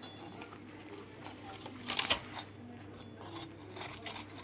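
Freshly baked pie crust being broken apart by hand: light crackling and small clicks, with a louder crackle about two seconds in.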